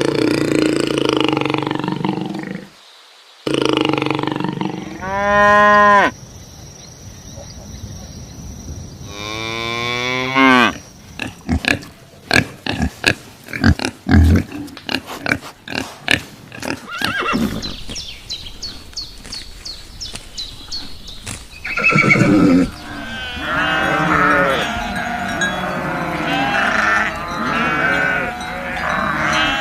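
A series of different farm animal calls, one after another. Pitched calls come in the first third, a run of rapid clicking noises in the middle, and a dense chorus of many short calls overlapping near the end.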